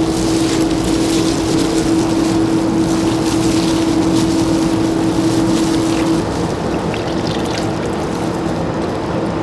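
Steady mechanical drone with a constant hum, the hum dropping out about six seconds in while the drone carries on.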